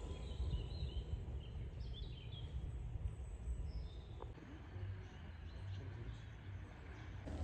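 Faint scattered bird chirps over a steady low outdoor rumble.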